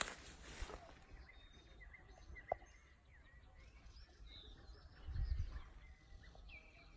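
Birds chirping and calling in short, high notes scattered throughout, with a brief low rumble about five seconds in.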